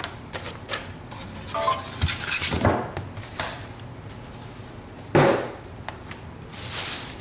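Packaging being handled while a glass electric kettle is taken out of its box: rustling, knocks and clicks, with a brief clink of glass about a second and a half in and a loud knock about five seconds in.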